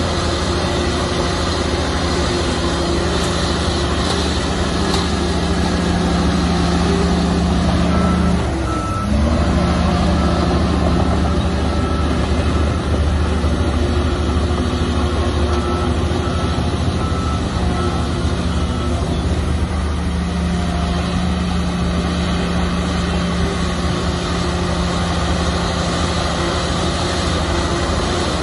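Komatsu bulldozer's diesel engine running steadily under load. About eight seconds in its pitch briefly dips and then climbs back, and a reversing alarm starts beeping at about two beeps a second, in two runs that stop well before the end.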